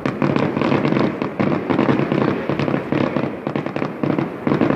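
Fireworks display: a dense, continuous string of bangs and crackles as many shells go off in quick succession.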